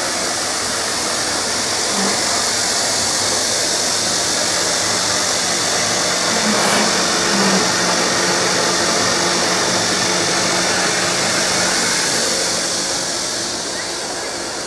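Screw-press manure dewatering machine running: a steady motor hum under a loud, even rushing hiss, slightly louder in the middle and easing off near the end.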